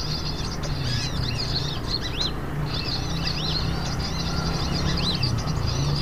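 Small songbirds chirping: a rapid, continuous string of short, high-pitched chirps and twitters, over a low steady hum.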